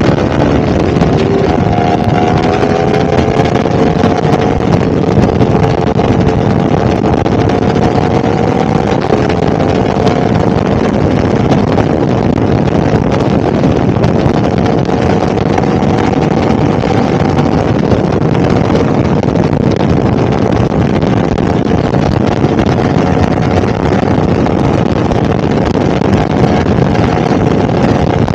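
A 2022 Yamaha R1's crossplane inline-four engine runs at a steady, slightly wavering pitch, with heavy wind rushing over the microphone.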